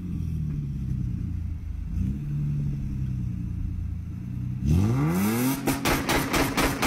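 A car engine running steadily, then revving hard about five seconds in, with a burst of crackling and clatter as it rises.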